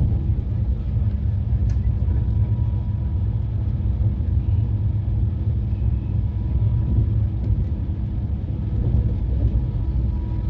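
Steady low rumble of a moving passenger train, with a few faint steady tones above it.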